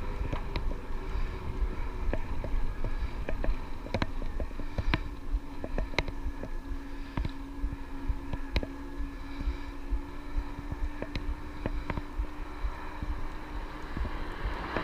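Electric bike being ridden: a steady low rumble of tyres and wind on the microphone, with irregular sharp clicks and ticks, and a steady hum that comes in about four seconds in and holds until near the end.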